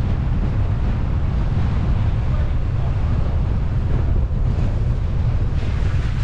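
Wind buffeting the microphone of a car-mounted camera while driving: a steady low rumble with a rushing hiss above it.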